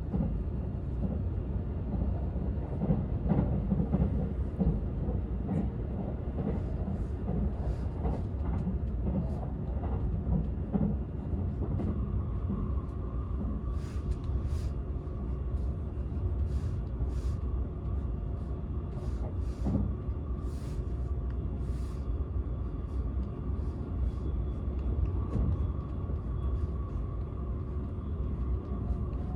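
Cabin running noise of a Seibu 001 series Laview limited-express train, heard inside its unpowered Tc driving car: a steady low rumble of wheels on rail. A faint steady whine joins about twelve seconds in, and a run of sharp clicks comes in the middle.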